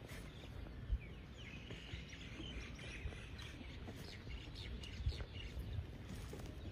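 Small birds chirping over a steady low rumble of outdoor noise, with a dull thump about a second in and another about five seconds in.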